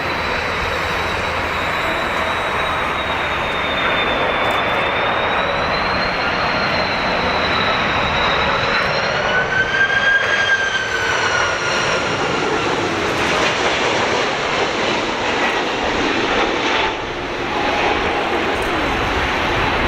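Airbus A330-300 jet airliner passing close by, a loud rush of engine noise with a whine that climbs in pitch toward the middle and then falls as it goes past.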